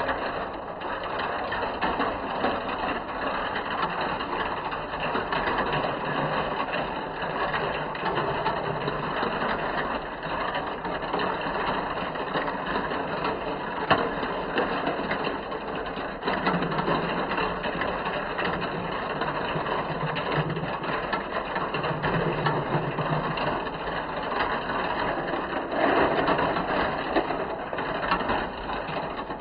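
Many marbles rolling and clattering down a plastic Kumi Kumi Slope marble run, a continuous rattle, with a sharp click about halfway through.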